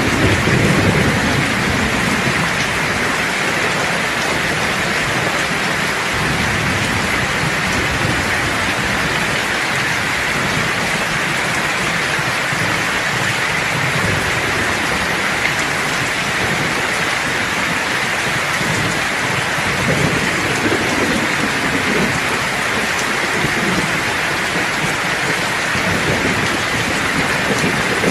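Steady heavy rain hissing, with thunder rumbling low beneath it: the strongest roll comes in the first couple of seconds, and fainter ones around the middle and near the end.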